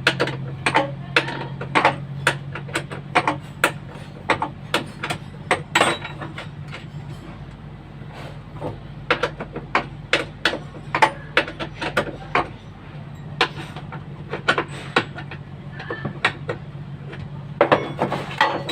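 Irregular sharp knocks and clinks of hand tools working on truck parts during gearbox removal, several a second at times, with a quieter stretch in the middle. A steady low hum runs underneath.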